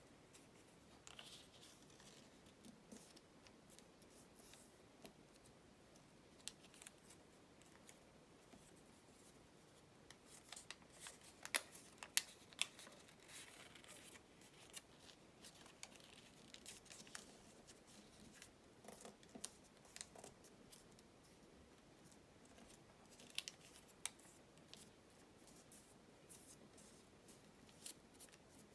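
Origami paper being handled and worked by hand, heard as quiet scattered clicks, taps and soft crinkles. The loudest is a cluster of sharp clicks about twelve seconds in.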